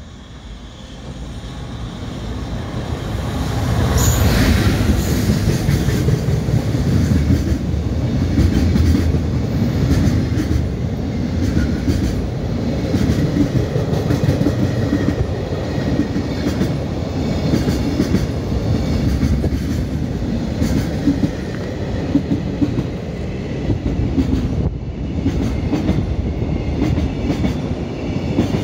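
JR Freight EF210 electric locomotive hauling a container freight train through a station without stopping: the rumble builds over the first four seconds as the locomotive arrives and passes. Then the container wagons roll past steadily, their wheels clattering on the rails.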